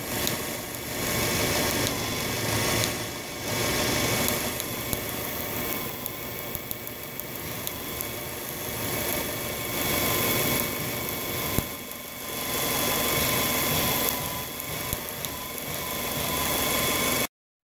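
Car engine idling steadily under the hood, with a few faint ticks in the running sound.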